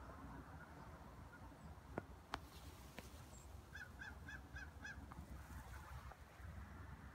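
A bird giving five short calls in quick succession, about four a second, just before the middle, over faint outdoor background. Two sharp knocks and a lighter tap of the phone being handled come shortly before the calls and are the loudest sounds.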